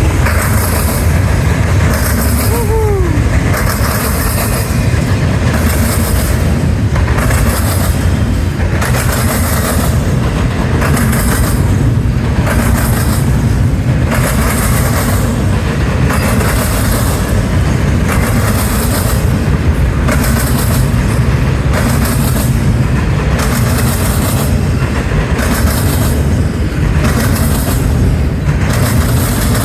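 Freight train of mixed cars passing at speed: a loud, steady rumble of wheels on rail, swelling and easing about once a second as each car goes by. A short sliding squeal comes about three seconds in.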